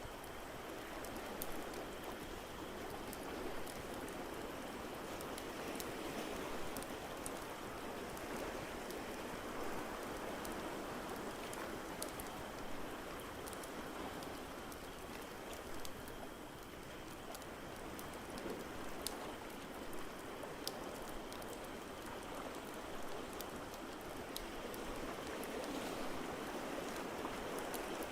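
Steady rushing water ambience with slow gentle swells, and a wood fire crackling over it in scattered sharp pops.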